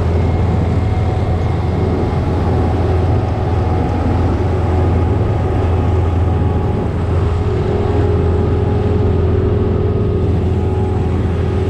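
Large diesel farm machine running steadily under working load: a constant low engine drone with a steady hum above it.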